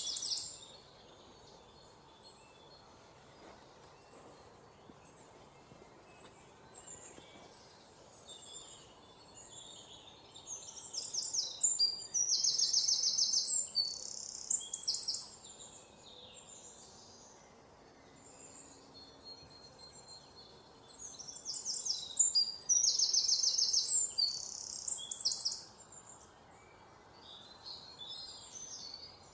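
Songbirds chirping and trilling in a natural chorus, with two loud bouts of rapid, high trilling about ten and twenty-two seconds in, and quieter scattered chirps between them.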